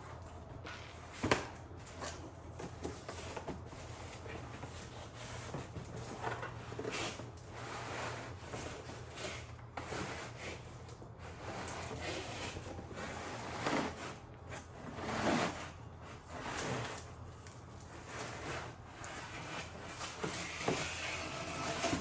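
Hands unpacking a parcel of car parts: packaging rustling and rubbing, with scattered knocks and clacks, a sharp knock about a second in and another at the very end, over a low steady hum.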